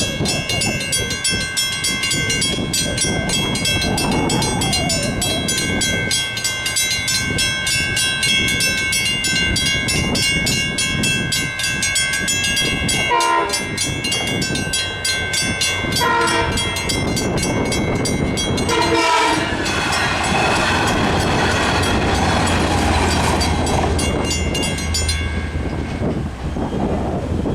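Long Island Rail Road train passing a grade crossing, its wheels and cars rumbling over the rails, while the crossing's warning bells ring rapidly and steadily. The bells stop suddenly about three seconds before the end.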